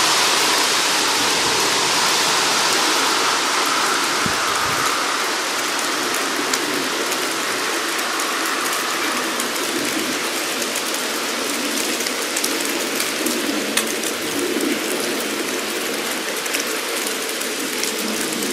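Rain falling steadily, a dense even hiss of drops with scattered sharper ticks.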